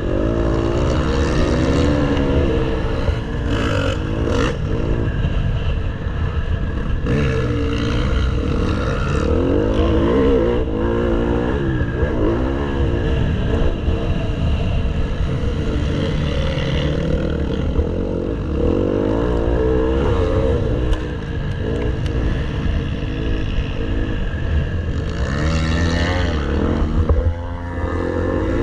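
Motocross bike engine being ridden hard, revving up and dropping back again and again, its pitch rising and falling every second or two.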